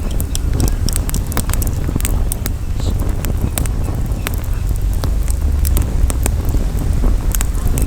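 Campfire crackling, with many irregular sharp snaps and pops, over a steady low rumble of wind on the microphone.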